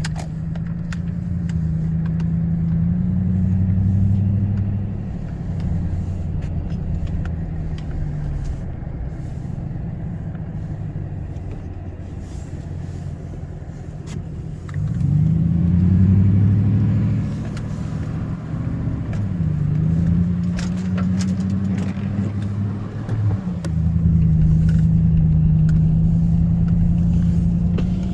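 An engine running steadily, its pitch climbing sharply about halfway through as it is revved or put under load, then settling and changing again twice near the end.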